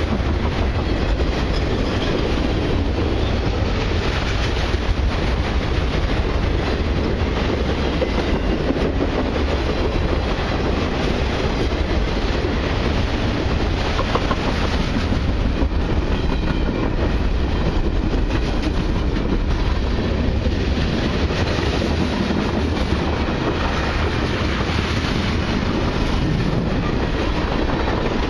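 The cars of a long mixed freight and autorack train rolling past at close range: a steady, unbroken rumble and rattle of steel wheels on the rails.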